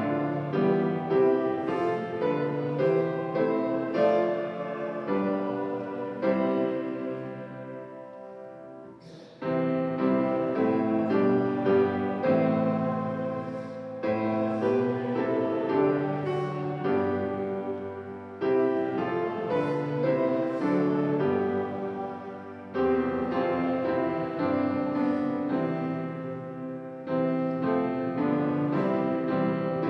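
Piano playing a slow hymn tune in phrases, with one chord left to fade away about eight seconds in before the next phrase begins.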